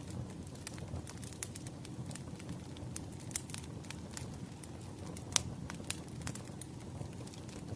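Wood fire crackling: irregular sharp pops and snaps over a low steady rumble, with a couple of louder pops a little past the middle.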